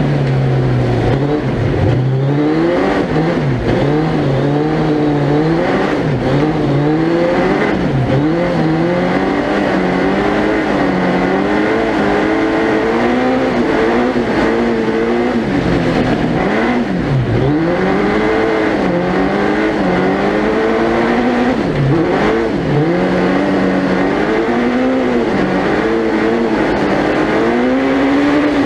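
The Suzuki Hayabusa 1300cc inline-four engine of a four-wheel-drive tubular-chassis prototype, heard onboard at full effort. It revs up and drops back again and again, its pitch climbing and then falling away every second or two.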